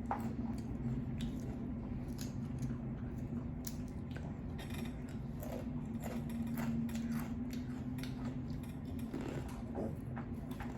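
Close-up eating sounds: chewing and mouth clicks with scattered small crisp taps, over a steady low hum.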